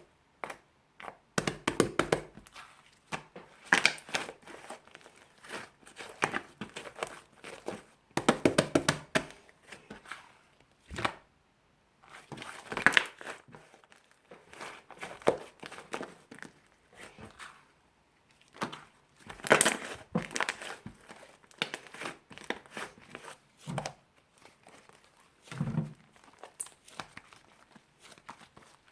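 Fluffy slime being squeezed, stretched and pressed by hand, making irregular bursts of sticky clicks and crackles.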